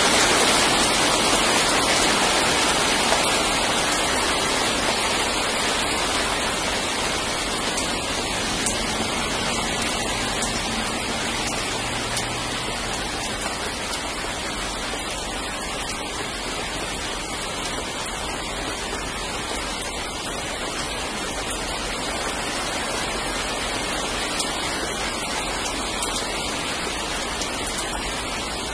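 Steady rain falling, a dense even hiss that slowly eases off.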